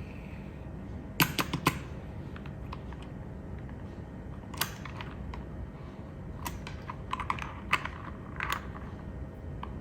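Irregular sharp clicks and taps over a steady low hum: a quick cluster of four just over a second in, one near the middle, and more scattered through the second half.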